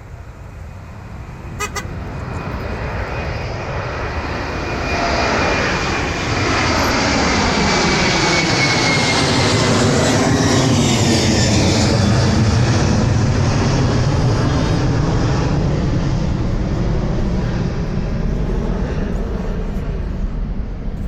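Jet airliner passing low overhead. The noise swells to a peak about halfway through, with a high whine that drops in pitch as it goes by, then slowly fades.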